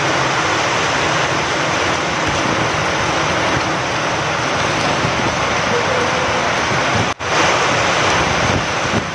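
Steady heavy rain with wind, a dense even hiss. It cuts out for an instant about seven seconds in, then resumes.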